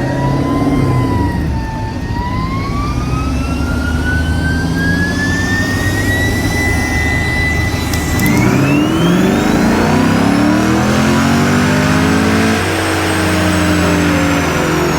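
Car engine at full throttle on a chassis dyno, revving up through the gears with a shift about eight seconds in, under a high whine from the spinning rollers and drivetrain that keeps climbing with road speed. The pull ends after about twelve seconds and the whine falls away as it coasts down.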